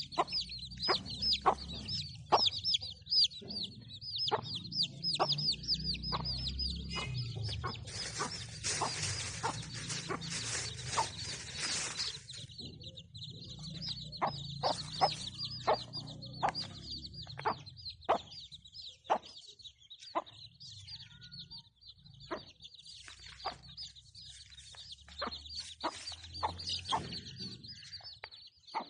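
Chicks peeping rapidly and continuously with a hen clucking among them. A few seconds of hissing noise come through about a third of the way in.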